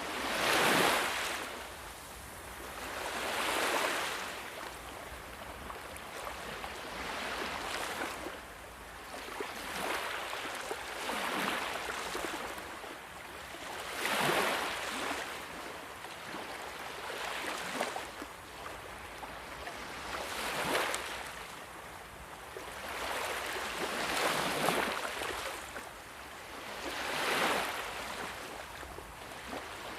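Sea waves breaking and washing in, one swell of surf every two to four seconds.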